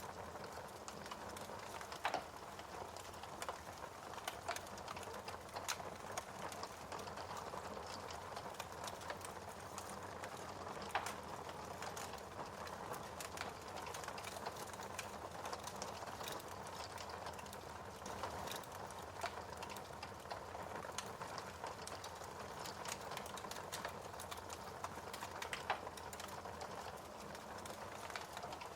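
Fireplace fire crackling: a dense run of small ticks and snaps over a soft hiss, with a few louder single pops scattered through.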